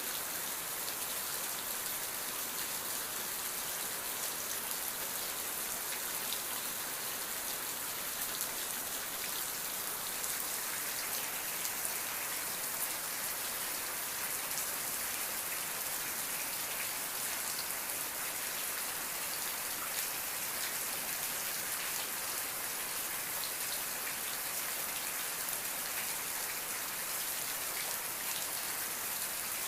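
Steady rain falling, with many separate drops pattering on a surface over an even hiss.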